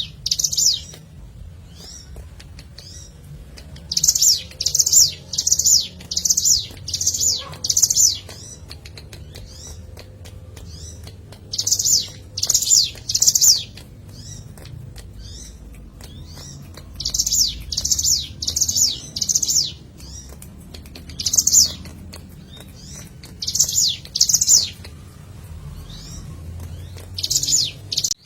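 Ciblek gunung (a mountain prinia) singing loud, high, buzzy notes repeated about two to three a second, in bursts of three to seven notes with pauses of a few seconds between them.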